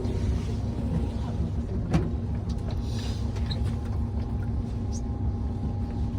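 Tour bus engine running steadily with a low rumble and a steady hum, heard from inside the cabin. A single sharp click about two seconds in.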